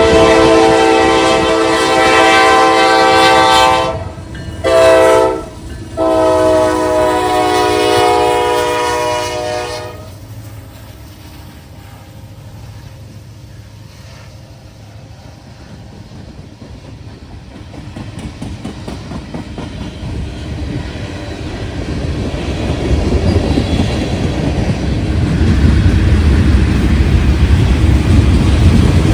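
Diesel locomotive's multi-chime air horn sounding a long blast, a short blast and another long blast, then a train's low rumble and wheel noise building up as it comes close.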